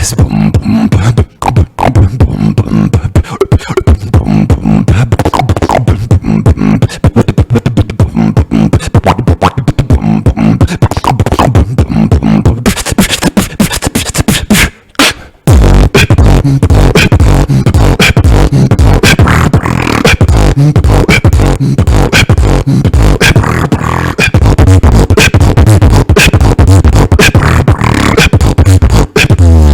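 Beatboxing: a fast rhythm of vocal kick, snare and hi-hat sounds over a heavy bass line. It breaks off briefly about halfway, then comes back with a heavier, longer-held bass and ends in a falling bass note.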